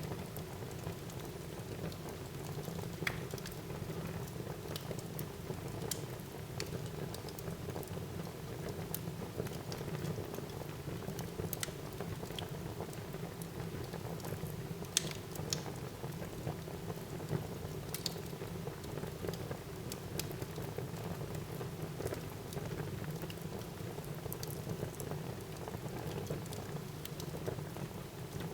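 Wood fire burning in a fireplace: a steady low rush with scattered sharp crackles and pops at irregular moments.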